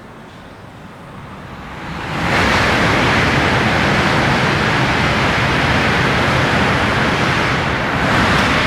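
High-speed train passing through the station at speed: a rushing noise that builds over about two seconds, then holds loud and steady.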